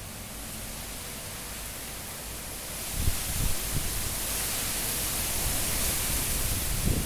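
Cyclone-force wind rushing steadily, then a strong gust building about three seconds in and staying loud. The gust brings a brighter hiss and low rumbling buffets on the microphone.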